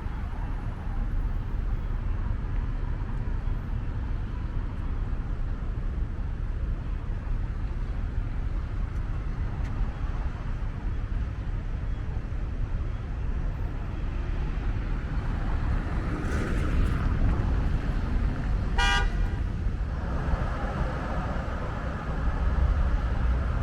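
Steady low rumble of city street traffic with cars passing. A single short car-horn toot sounds about three-quarters of the way through.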